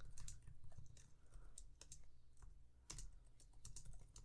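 Typing on a computer keyboard: a quiet, irregular run of key clicks, a little louder about three seconds in.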